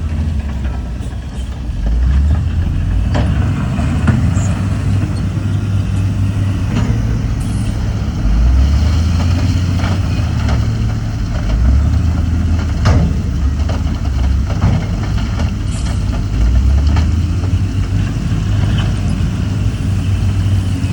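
Heavy diesel engines of dump trucks and earthmoving machines working, a deep rumble that rises and falls in pitch as they rev, with scattered metallic clanks.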